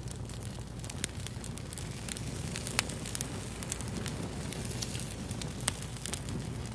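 Fire crackling: a steady run of irregular sharp pops and snaps over a low rumble, with two louder pops, one near the middle and one near the end.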